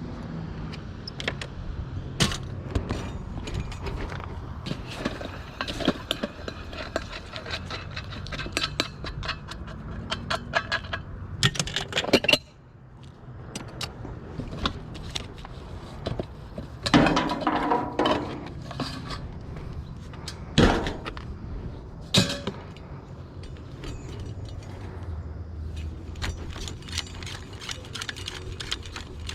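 Hard scrap items being handled and knocked together: many clicks, clinks and knocks, with a louder cluster of clatter about two-thirds of the way through. The background drops away suddenly a little after twelve seconds in.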